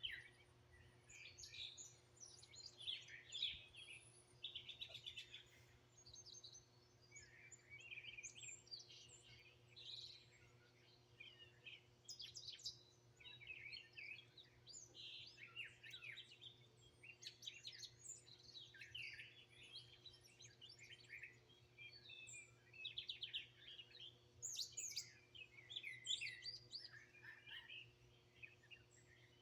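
Several wild songbirds chirping and singing over one another, a continuous chorus of short calls and quick trills, heard faintly over a low steady hum.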